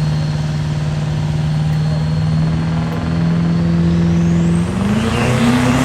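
Diesel truck engine held at steady high revs, with a thin high whistle climbing in pitch, then the engine note rising as it revs harder near the end.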